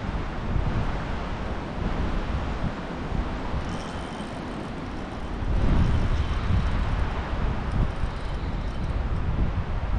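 Strong wind gusting over the microphone, a low rumbling buffet that grows louder about halfway through.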